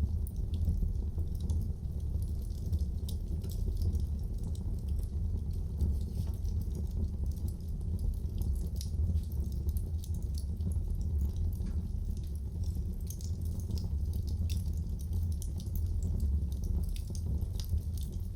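Wood fire burning in a fireplace: a steady low rumble with many small, sharp crackles and pops at irregular intervals.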